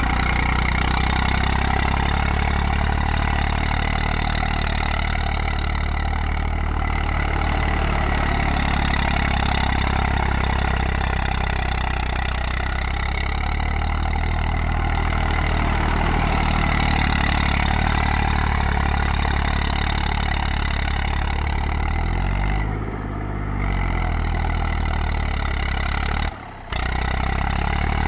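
Eicher 380 tractor's diesel engine running steadily. Its speed dips and recovers briefly about 23 seconds in, and there is a very short break in the sound near the end.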